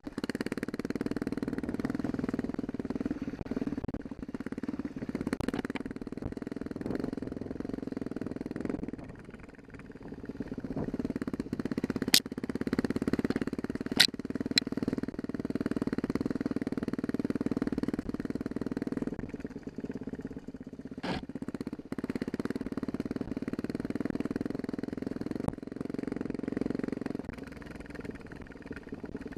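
Dirt bike engine running along a trail, throttle rising and easing off, with a brief lull about a third of the way through. Several sharp knocks cut through the engine near the middle.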